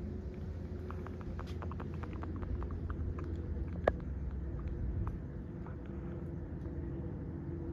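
Distant low rumble of an Airbus A350-1000's Rolls-Royce Trent XWB jet engines at takeoff power, steady throughout. Scattered light ticks in the first half and one sharp click about four seconds in.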